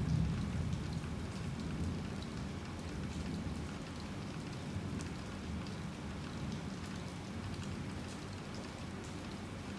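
Heavy rain falling steadily, with many separate drops ticking on hard surfaces. A low rumble of thunder fades away over the first couple of seconds.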